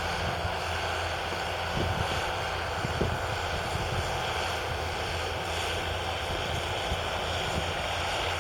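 Fendt 936 Vario tractor's 9.0-litre six-cylinder diesel engine running steadily.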